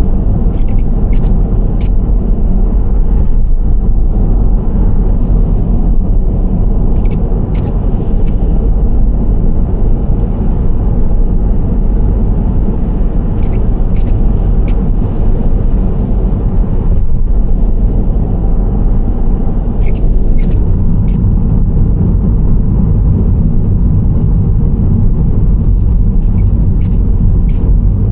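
Nissan Serena C25 minivan driving at a steady pace: a loud, even low rumble of engine and tyres on the road. Faint sharp clicks come in little clusters of two or three about every six seconds.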